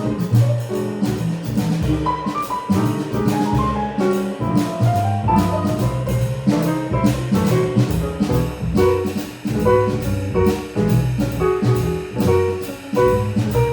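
Live jazz band playing an instrumental passage: alto saxophone or trumpet lines over piano, walking double bass and a drum kit keeping a steady beat on the cymbals.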